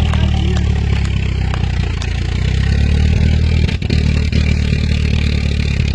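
1928 Ford pickup truck's engine running steadily at idle, with a brief dip about two-thirds of the way through.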